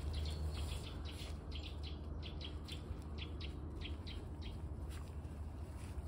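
Small bird chirping: many short, high chirps, several a second, over a low steady rumble.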